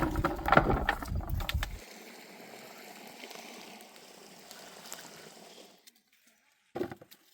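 Running water of a river, a steady rushing, after a second or two of loud knocks and splashes. The water cuts off suddenly near the end, followed by one short thump.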